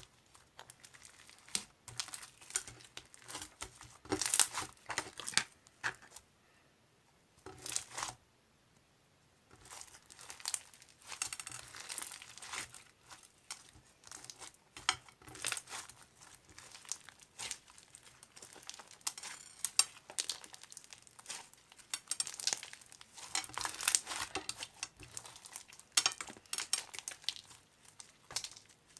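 Crinkly paper or plastic being handled, with irregular crackling rustles that stop for a few seconds about six seconds in and then start again.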